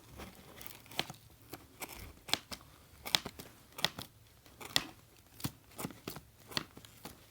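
Packing tape being picked at and peeled off a cardboard box: irregular sharp crackles and tearing snaps, about one or two a second.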